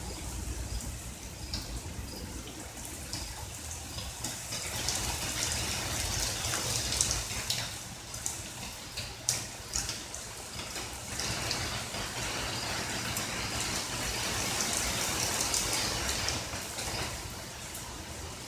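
Heavy rain falling: a steady hiss of rain with scattered sharper drips and splashes, a couple of them louder around the middle.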